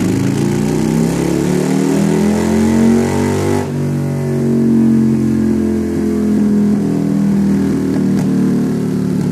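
Motorcycle engine running, its pitch rising and falling slowly as the revs change, with a sudden change in the sound about three and a half seconds in.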